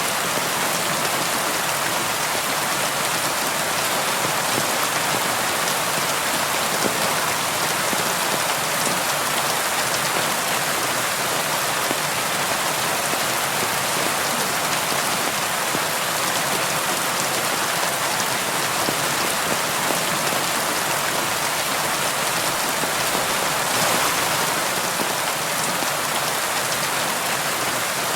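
Steady, dense rain falling on a window and hard surfaces, an even hiss with a scatter of individual drop ticks.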